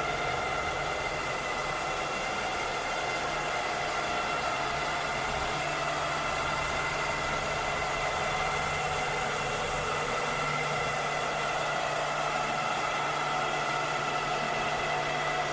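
Cleaning robot's motor running steadily: a continuous whirring hum with several steady high tones over an even rush of air.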